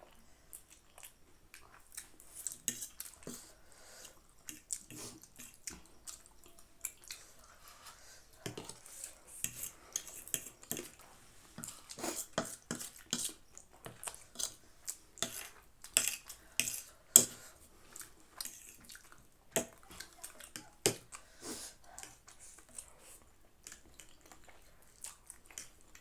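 Cutlery clinking and scraping against dishes during a meal of instant noodles, in frequent short sharp clicks with the loudest about seventeen seconds in.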